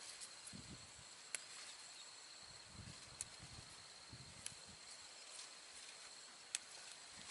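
Faint outdoor ambience: a steady high-pitched insect drone, with a few sharp clicks and some soft low thuds.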